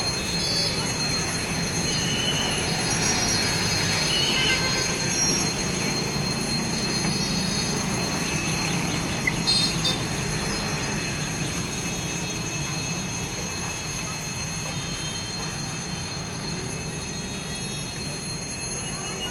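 Train running on the rails: a steady rumble with high, thin wheel squeal, slowly getting quieter over the second half.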